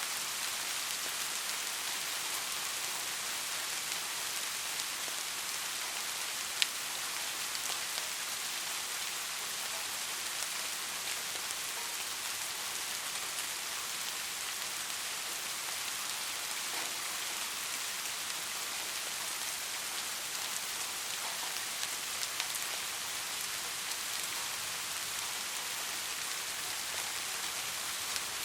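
Steady rain falling on a street, an even hiss with scattered drops ticking; one sharper drip lands about six and a half seconds in.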